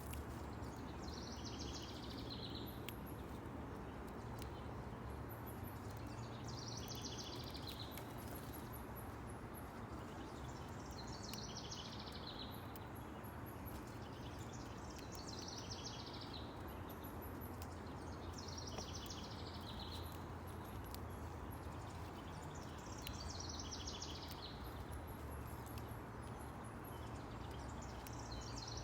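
A songbird repeating the same short, trilled song phrase, each about a second and a half long and falling in pitch, about every four to five seconds. Under it runs a steady low outdoor rumble, with faint high ticks.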